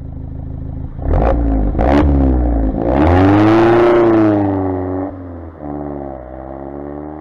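Alfa Romeo Giulietta Quadrifoglio Verde's turbocharged four-cylinder engine revving: two short sharp blips, then a longer rev that rises and falls, then running at lower revs as the car pulls away.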